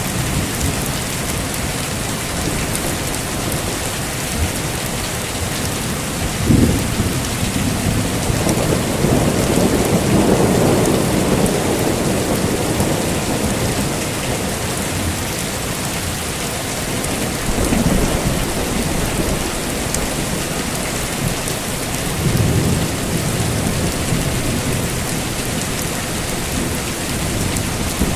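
Heavy steady rain with rolling thunder: a sharp crack about six seconds in, a long low rumble swelling through the middle, and further rumbles later on.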